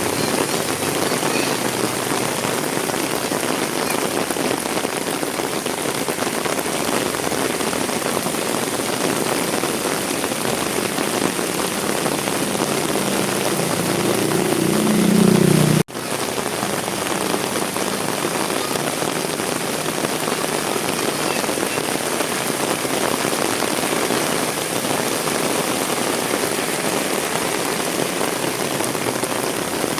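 Heavy rain falling steadily, an even hiss of drops on surfaces. About halfway through, a low sound swells for a couple of seconds, then everything breaks off for an instant before the rain resumes.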